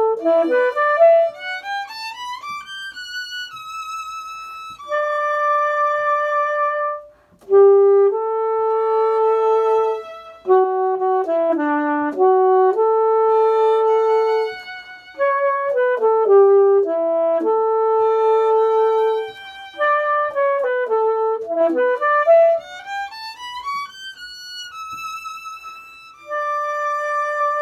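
Violin and saxophone duet playing a composed chamber piece: quick rising runs alternate with long held notes, and the passage ends on a held note.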